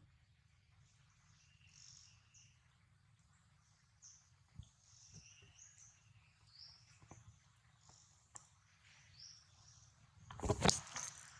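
Faint, scattered high bird chirps, with a few soft clicks and a brief rustling burst near the end.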